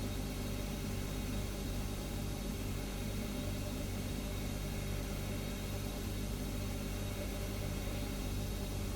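Refrigerator humming steadily: a low, even hum with a faint hiss over it.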